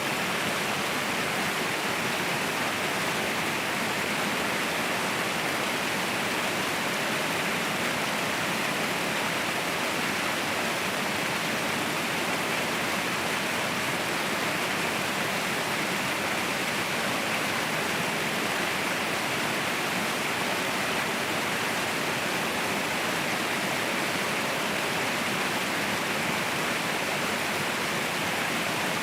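Waterfall rushing: a steady, unbroken hiss of falling water, brightest in the upper middle with little deep rumble.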